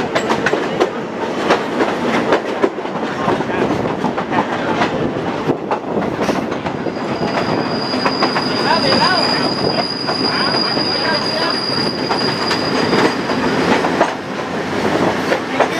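Passenger train carriages rolling on parallel tracks, heard close from an open carriage window: wheels clattering over rail joints, with a steady high wheel squeal from about seven seconds in until about fourteen seconds.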